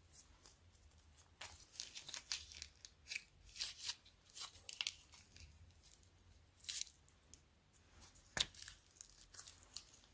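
Plastic slime bags being handled, in irregular crinkling and tearing rustles, with one sharp snip or click a little past eight seconds in.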